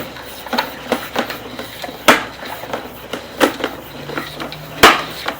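A series of irregular clicks and knocks, the loudest about two seconds in and near the end, with a faint low hum in the last second or so.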